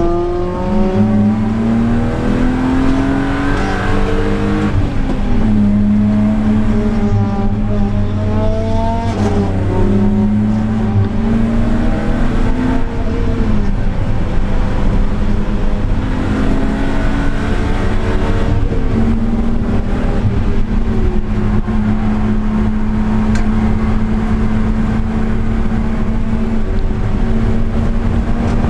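Car engine heard onboard while driving hard: the engine note rises through the revs and drops at each gear change several times in the first twenty seconds, then holds a steady high pitch.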